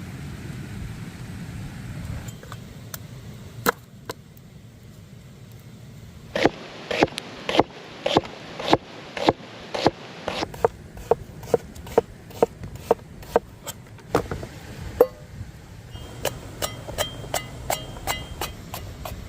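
A series of sharp knocks, about two a second, in two runs with a short pause between, over a low rumble of outdoor background noise.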